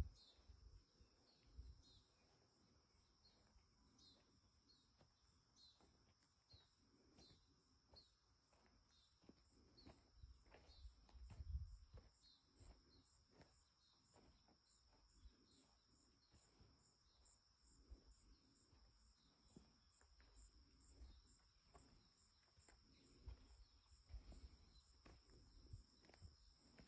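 Faint insect chorus: a steady high trill with short high chirps repeating about once a second, plus a few faint low rumbles.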